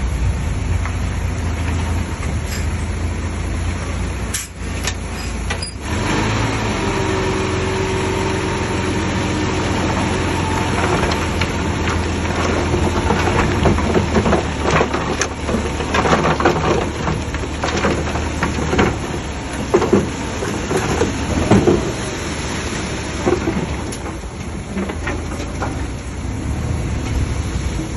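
Diesel engine of heavy earthmoving machinery running steadily, with a brief dip a few seconds in. Through the middle come repeated clanks and knocks of metal and debris being pushed and dumped.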